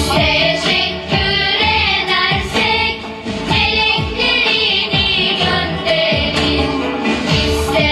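Children singing a song over instrumental backing with a steady beat.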